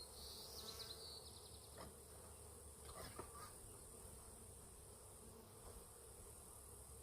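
Honey bees buzzing faintly around a disturbed hive, with a brief high trill in the first second.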